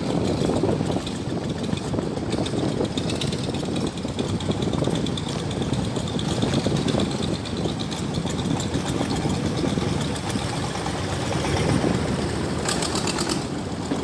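Motorboat engine running steadily under way, a dense low drone with a fast, even firing rhythm.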